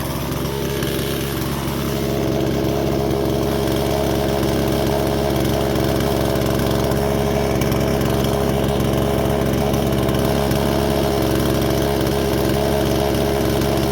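Husqvarna 120 Mark II two-stroke chainsaw fitted with a new Hipa chain, running steadily at high speed while cutting cross grain through hardwood.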